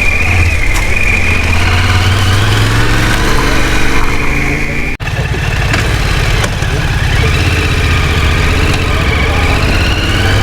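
Off-road motorcycle engine running steadily, with a sudden break about halfway through where the sound cuts out for an instant and resumes.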